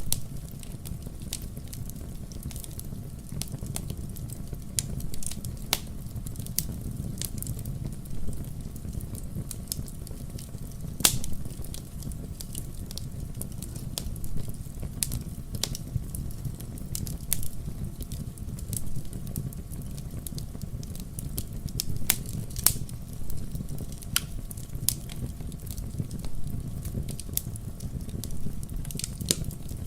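Wood fire burning in a fireplace: a steady low rumble of the flames with irregular sharp crackles and pops, a few louder snaps about eleven seconds in and again past the twenty-second mark.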